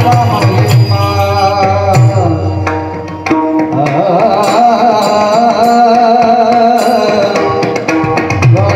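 Marathi devotional abhang singing: a solo voice with hand-drum accompaniment. The drum drops out after about two seconds while the singer holds one long ornamented note, and the drumming returns near the end.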